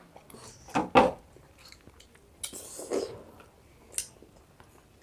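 Ice cream and kulfi being eaten quickly: bites and slurps with a few sharp knocks and clicks of handling, the loudest about a second in and a short click near the end.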